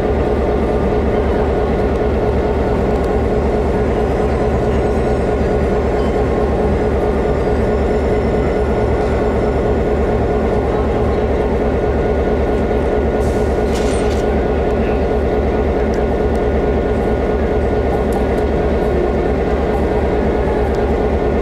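A train's engine running steadily, an even low rumble with a constant hum, with a brief hiss about thirteen seconds in.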